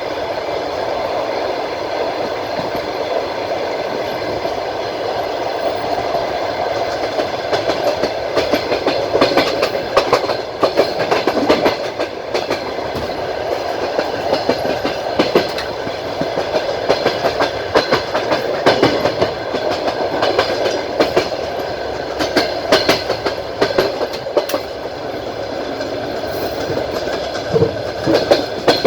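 Passenger train running: steady rumble and rail noise under a carriage, with groups of wheel clicks over rail joints starting about eight seconds in and recurring to the end, heard from a carriage window.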